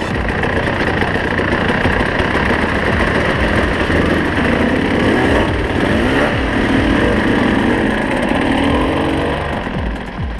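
Dirt bike engine running under way, its revs rising and falling as the rider throttles on and off.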